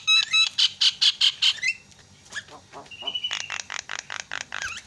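Javan myna (jalak kebo) calling: fast runs of short, harsh chattering notes, about five or six a second, with a brief whistled note in the middle. The chatter eases off about two seconds in, then picks up again.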